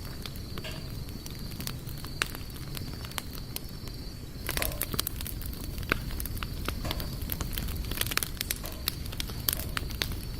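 Wood campfire burning: irregular sharp crackles and pops over a low rumble, with a louder hissing flare about four and a half seconds in. A thin steady high whine runs underneath.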